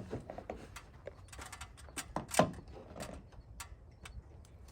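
Gloved hand scraping packed dirt and twigs out of a clogged rain gutter: scattered clicks, rustles and scrapes. About two and a half seconds in comes a short, loud sound that falls in pitch.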